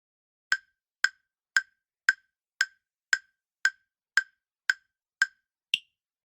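Countdown-timer sound effect: eleven sharp, woodblock-like ticks, about two a second, the last one higher-pitched.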